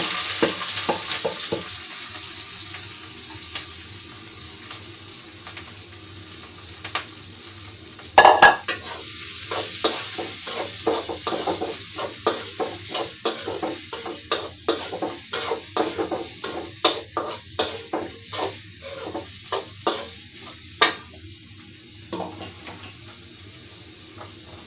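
Chopped onion, garlic and green chillies sizzling in a frying pan, loudest at the start and fading over the first few seconds. From about eight seconds in, a spatula stirs them against the pan in even strokes, about two a second, stopping a few seconds before the end over a continuing faint sizzle.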